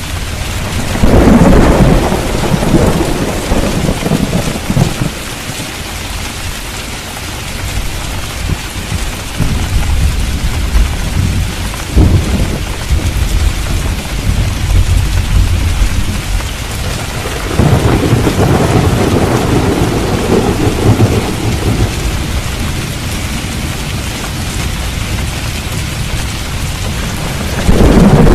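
Steady heavy rain falling, with rolls of thunder: one starting about a second in, another a little past the middle, and a third beginning near the end, plus a single sharp crack near the middle.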